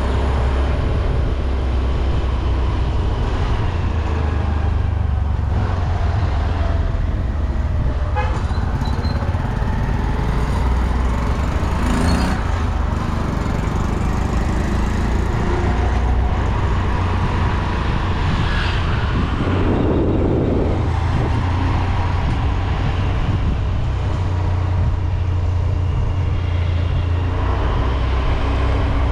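Road traffic: a steady low rumble of vehicles on the road, with a few short horn toots among it.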